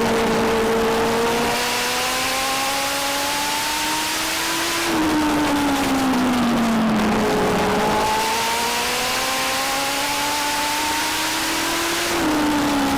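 Legend race car's four-cylinder Yamaha motorcycle engine at racing speed. The engine note climbs steadily on one straight, then falls as the throttle eases for the turn about five seconds in. It climbs again on the next straight and starts to fall once more near the end.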